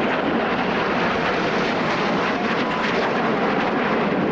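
Airplane engine noise from a display aircraft flying past, a loud steady rush.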